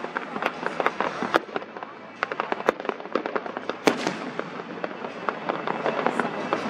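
Fireworks going off: a dense, irregular string of sharp pops and crackles, with one louder bang about four seconds in.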